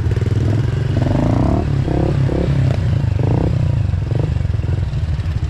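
Pit bike engine running steadily at low speed.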